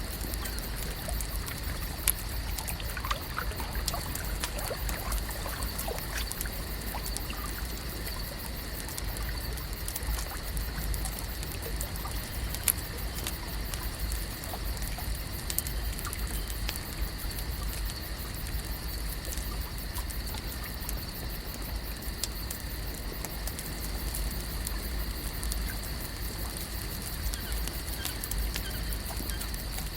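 Lake ambience: water gently lapping and trickling under a steady high-pitched hum, with scattered small clicks and pops. A sharper click comes about two seconds in and another near the middle.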